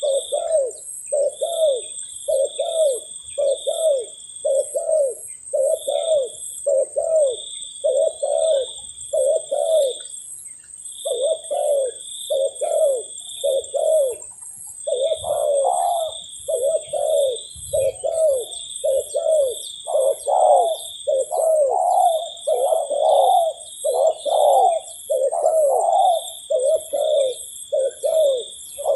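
Spotted doves (tekukur) cooing, an unbroken run of low coo notes about one and a half a second, over a steady high-pitched drone.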